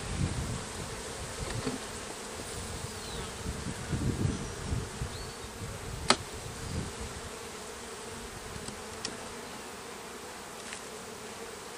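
Honeybees from an opened hive buzzing in a steady hum, with one sharp click about six seconds in.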